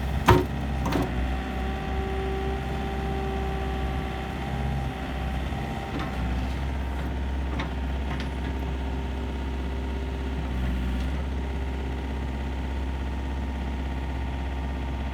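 Komatsu PC50UU-2 mini excavator's diesel engine running steadily with a whine over it. A loud clank comes about a third of a second in and another about a second in, with lighter knocks around six and eight seconds.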